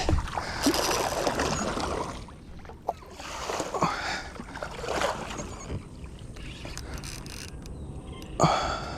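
Water splashing and sloshing around a small kayak in irregular bursts, the loudest about a second in and again near the end.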